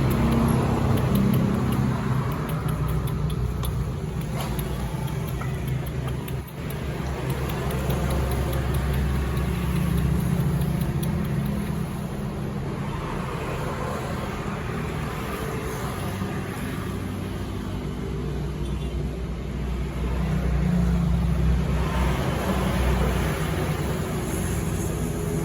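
Road traffic: a steady low engine rumble that swells and fades as vehicles pass, twice growing louder.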